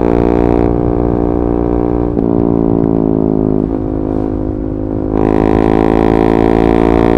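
KTM 390 Duke's single-cylinder engine running loud through an Akrapovic slip-on exhaust with the catalytic converter removed. The note has two brief breaks about a second and a half apart, then turns louder and brighter about five seconds in.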